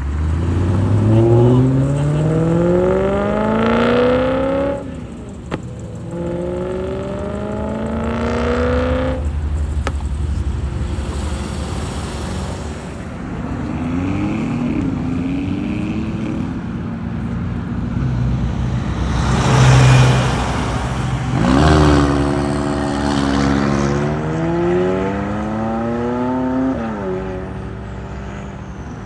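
Cars accelerating hard away, their engine notes rising in long sweeps, three big pulls in all with breaks between them and a loud burst in the middle.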